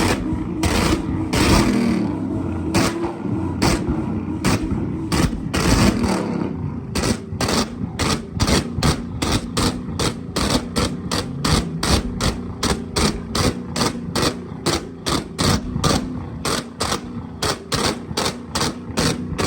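Car engine held on a two-step launch limiter, its exhaust banging and popping over the running engine. The bangs settle into an even beat of about three a second from around seven seconds in.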